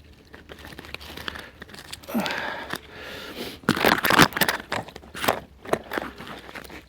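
Twigs and bark being snapped, torn and crunched by hand while gathering kindling: irregular crackling and tearing, loudest in a cluster of sharp cracks about four seconds in.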